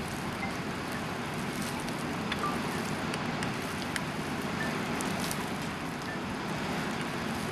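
Blizzard wind blowing steadily, with a few faint scattered ticks.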